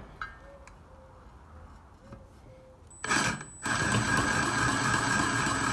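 A handheld power tool is switched on about three seconds in and then runs steadily with a high whine.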